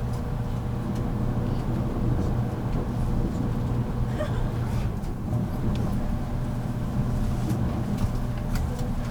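Interior running noise of a 783 series limited express electric train at steady speed, recorded in motor car MoHa 783-13. A steady low rumble of wheels and running gear carries a faint steady whine, with a few light ticks scattered through.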